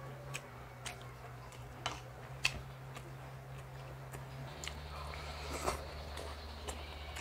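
A person chewing and biting food close to the microphone, with scattered short crisp crunches and clicks, the sharpest about two and a half seconds in. A low steady hum runs underneath and changes pitch about halfway through.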